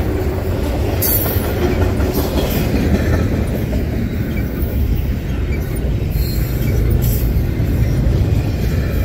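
Double-stack intermodal well cars of a freight train rolling past close by: a steady, loud rumble of steel wheels on rail.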